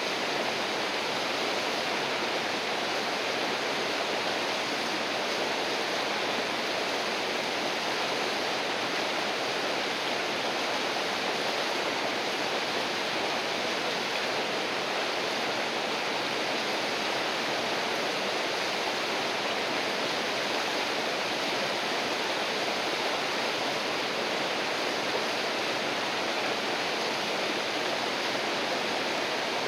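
River water flowing steadily, an even rushing noise with no change in level.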